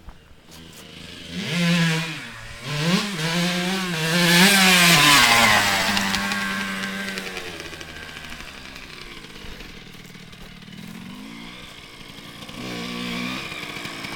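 Suzuki RM125 two-stroke single-cylinder motocross bike revving hard as it approaches, loudest about four to five seconds in as it passes, then its pitch drops and the sound fades into the distance. It revs up again, fainter, near the end.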